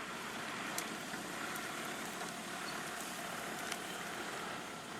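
A motor vehicle running: a steady, even noise with a couple of faint clicks.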